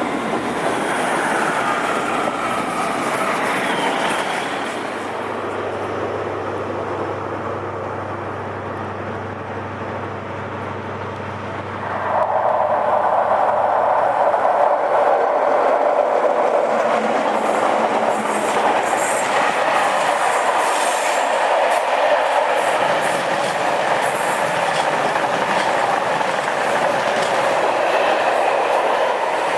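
A train on the rails: a low steady hum for the first dozen seconds, then suddenly a louder, sustained rush of wheels on rail with scattered clicking over the rail joints.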